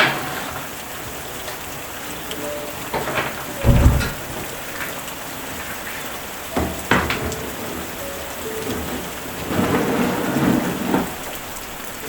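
Steady rain, with scattered knocks and clinks over it and a heavier low thump about four seconds in.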